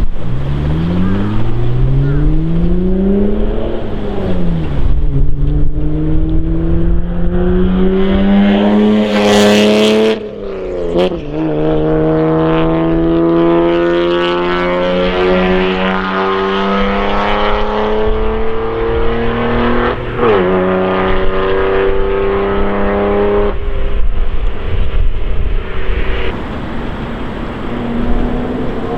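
Toyota JZX90 Mark II's twin-turbo 1JZ-GTE straight-six, with a modified intake and exhaust, accelerating hard through the gears: the revs climb and drop at gear changes about 4, 10 and 20 seconds in, with a short hiss just before the second change. Near the end it comes off the throttle and the engine note falls lower and rougher.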